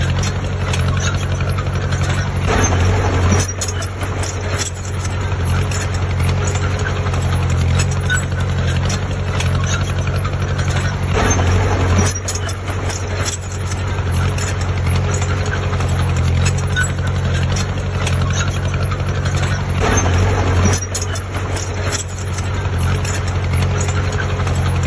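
Heavy diesel engine of earthmoving machinery running with a steady low rumble, overlaid by frequent metallic clanks and knocks; it grows louder briefly about three times.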